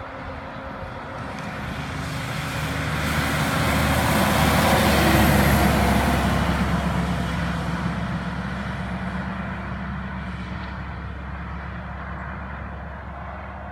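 2005 International 9400i logging truck going past with its diesel engine running. It grows louder to a peak about five seconds in, then fades as it moves away.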